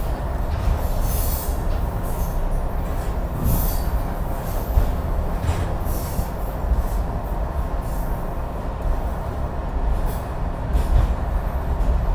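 Passenger train carriage running along the track, heard from on board: a steady low rumble of wheels on rails, with brief hissing bursts every second or two.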